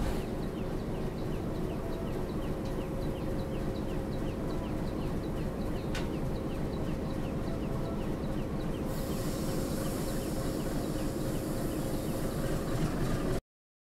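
A bird calling in a steady series of short, high, falling chirps, about two a second, over a steady low rumble; all sound cuts off abruptly near the end.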